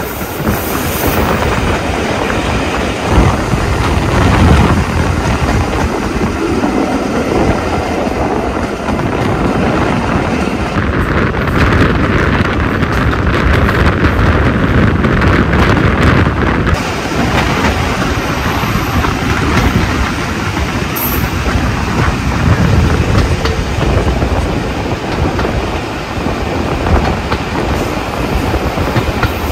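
Jacobite steam train's carriage running along the track: a steady rumble and rattle of wheels on rails, with a brighter hiss joining for about five seconds near the middle.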